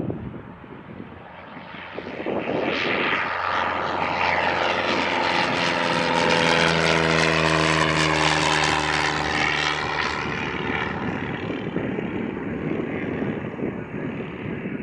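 Propeller airplane passing close by: its engine and propeller note builds to a peak about seven seconds in, drops in pitch as it goes past, then fades away.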